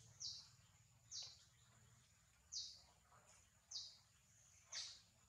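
A bird repeating a short, high chirp that falls in pitch, five times about a second apart, over a faint steady high-pitched hum.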